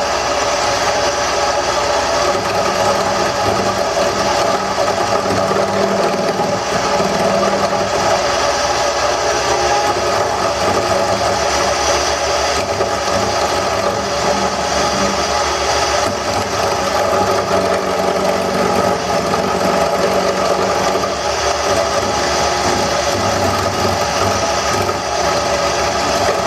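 Wood lathe running steadily while a roughing gouge cuts the spinning handle blank, roughing it down toward a cylinder.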